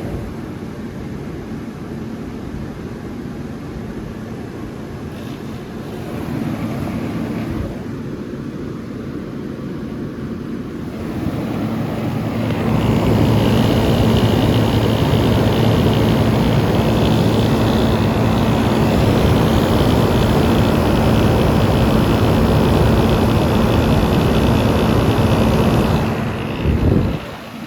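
Vintage Carry Cool 5,000 BTU window air conditioner running with the compressor on: a steady fan blowing over a low compressor hum. It gets louder about halfway through, then holds steady until a short dip near the end.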